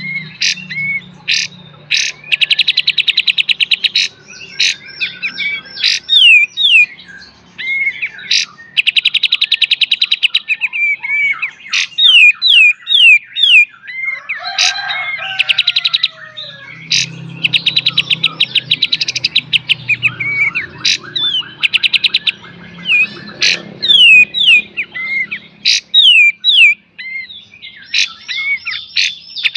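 Kapas tembak bird singing a loud, varied song: fast rattling trills, the 'beset', alternating with sharp single 'tembak' notes and quick downward-slurred whistles.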